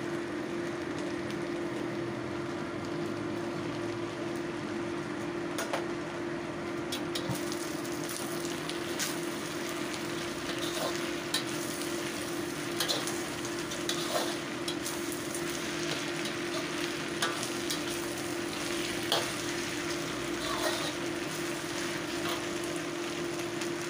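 Noodles and vegetables sizzling in a hot wok as they are stir-fried, with a metal spatula scraping and clinking against the wok from time to time. A steady low hum runs underneath.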